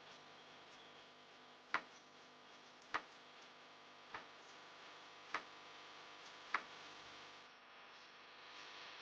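Five sharp clicks, evenly spaced a little over a second apart, over a faint steady hiss.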